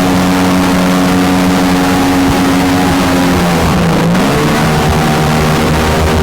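Mini jet boat's engine running steadily at speed, with the rush of water and wind behind it. About three and a half seconds in, the engine pitch drops briefly, as with the throttle eased off, then climbs back up.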